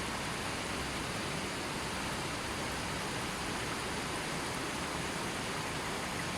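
River water flowing in a steady, even rush with no birds or other sounds.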